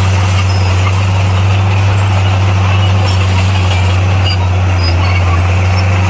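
Bulldozer's diesel engine running steadily, a deep constant drone with no change in pitch or level.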